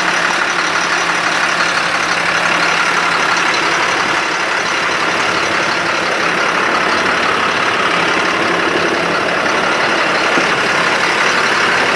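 Ford F-750 truck engine idling steadily with the PTO engaged, driving the boom's hydraulic pump.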